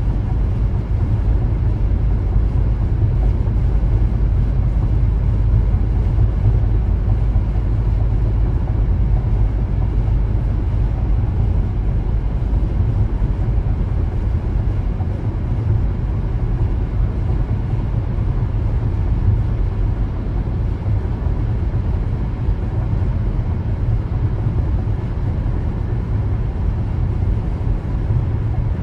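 Steady road noise of a moving car heard from inside the cabin: an even low rumble of tyres and engine that holds constant throughout.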